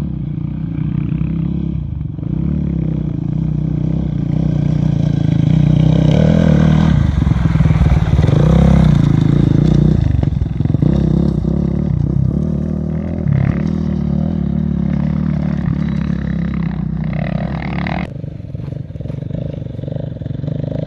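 A motor vehicle's engine running steadily, growing louder for a few seconds in the middle and then easing off.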